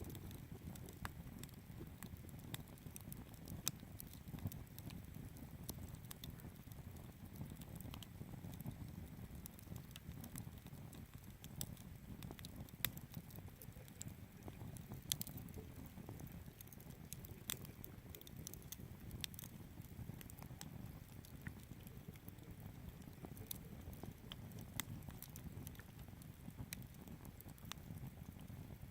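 Wood fire crackling in a Picogrill 398 folding fire pit: irregular sharp pops and snaps over a low steady rush.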